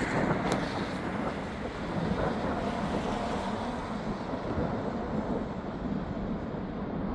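Breezy wind blowing across the microphone, a steady rushing noise with a low rumble from buffeting.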